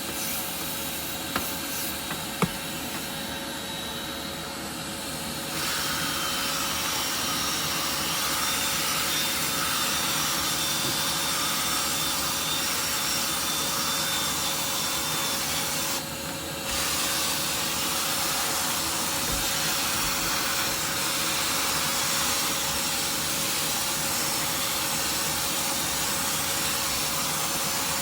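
Wet vacuum running steadily while sucking water back out of wet carpet. It gets louder about five seconds in and drops out briefly around sixteen seconds, as the nozzle works the carpet.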